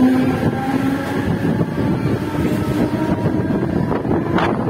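Mumbai suburban EMU local train running, heard from its open doorway: a steady rumble of wheels on rail with a motor whine that rises slowly as the train picks up speed after leaving the platform. A couple of brief, sharp noises come near the end.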